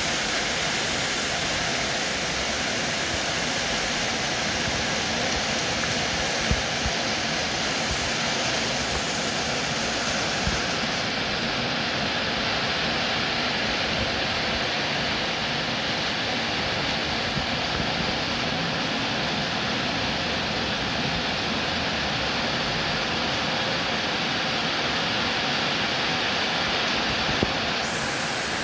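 Steady rain falling, an even hiss of water, with a few faint taps here and there.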